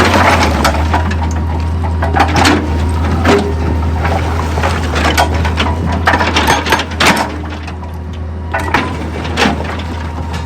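Heavy machine engine running steadily under irregular cracking and clattering of rock being broken and moved, with a dozen or so sharp knocks scattered through.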